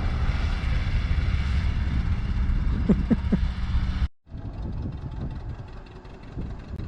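Ford 2N tractor's four-cylinder engine running steadily while the tractor drives along. The sound breaks off abruptly about four seconds in, and a quieter, more uneven engine sound follows.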